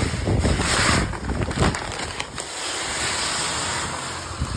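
Pelletized limestone pouring out of a bag into a fertilizer spreader's hopper: a rushing hiss of pellets, heaviest in the first couple of seconds, then a steady stream.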